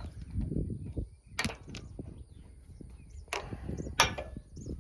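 Several sharp metallic knocks and clicks over low handling noise, from a hydraulic hose fitting being worked and screwed into a disc harrow's hydraulic cylinder.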